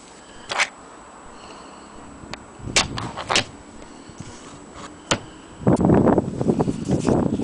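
Willcox & Gibbs antique sewing machine clicking and clattering. A few separate sharp clicks come first, then a stretch of dense, irregular rattling begins about three-quarters of the way in.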